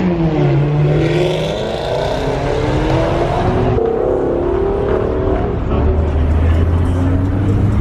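Car engines revving and accelerating, their pitch rising and falling. A deep steady drone comes in about six seconds in.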